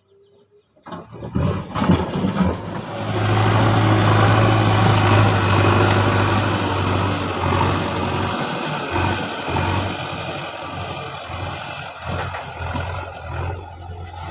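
A JCB backhoe loader's diesel engine comes in suddenly about a second in and runs loud and steady with a low drone. It is loudest from about three to six seconds in, then eases slightly.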